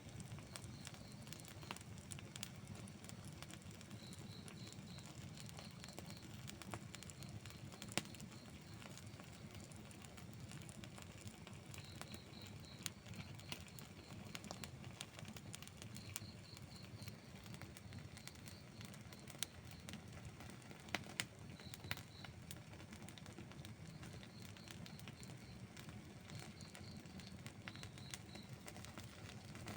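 Wood campfire burning with scattered crackles and sharp pops, a few louder ones about 8 and 21 seconds in, over a low steady rumble. Faint high chirps in short runs of three or four recur throughout.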